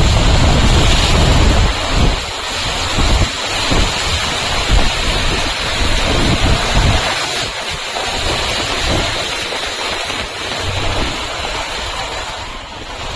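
Rain with wind buffeting the microphone: a continuous noisy rush, with a heavy gusting low rumble for about the first seven seconds that then eases.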